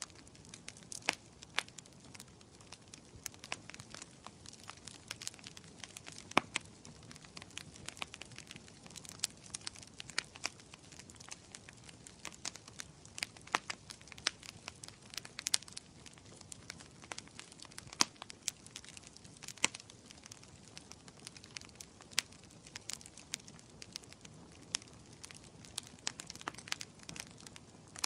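Wood fire crackling in a fireplace: irregular sharp pops and snaps over a soft, steady hiss of burning.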